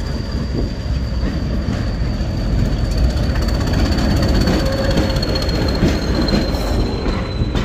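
A train moving on the rails with a steady high-pitched wheel squeal that falls slightly in pitch, over a heavy low rumble.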